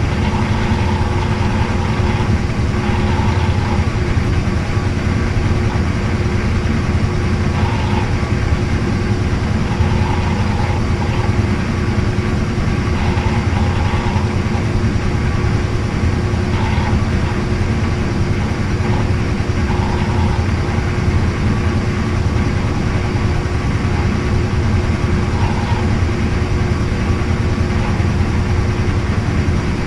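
Washing machine running with a steady, unbroken motor hum.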